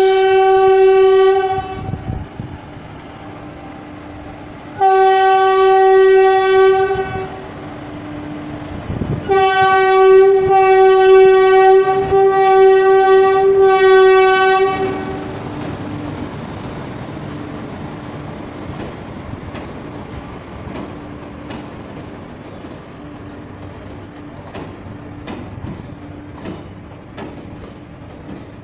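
Electric locomotive's horn sounding a long blast, a second blast about five seconds in, then a run of about five short blasts between about nine and fifteen seconds. The passenger coaches then roll past, with a steady rumble and the clickety-clack of wheels over rail joints.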